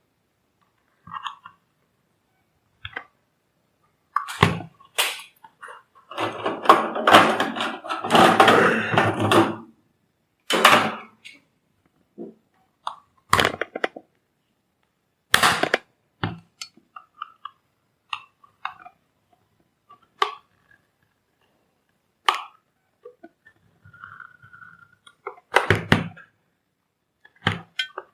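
Workbench handling noises: scattered knocks and clicks, with a dense stretch of scraping and cracking about six seconds in that lasts around three and a half seconds.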